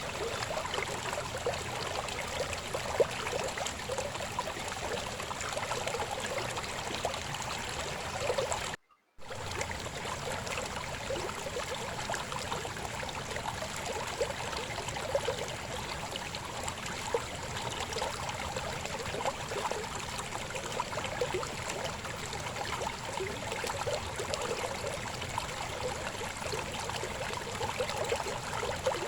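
A babbling river: a steady rush of flowing water with gurgling and trickling. The sound cuts out completely for a split second about nine seconds in.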